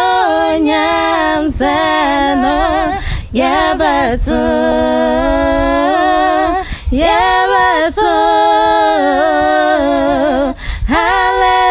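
Two voices singing a gospel song a cappella in harmony, in long held phrases with wavering vibrato and short breaks between them.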